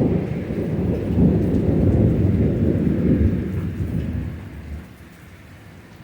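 Thunder rumbling low and long, dying away about three-quarters of the way through, with steady rain underneath that carries on after it.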